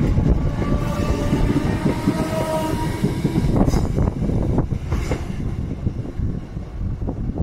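Merseyrail electric multiple unit pulling out of the station, a steady rumble of wheels and motors with a faint motor whine in the first few seconds. A few clacks of the wheels over the rails come about halfway through, and the rumble eases as the train draws away.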